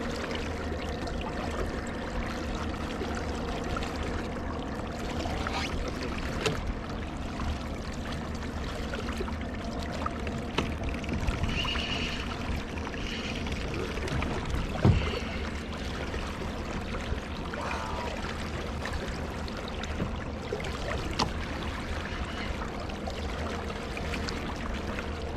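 Water sloshing and trickling against a kayak's hull, with a steady background rush and scattered small knocks; one sharper knock stands out about halfway through.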